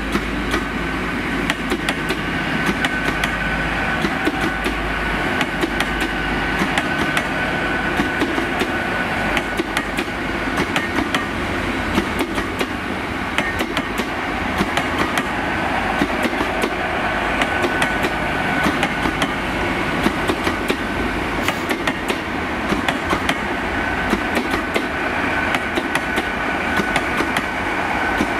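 Passenger train rolling slowly past, its carriages giving a steady rumble with repeated short wheel clicks and a thin high whine that comes and goes.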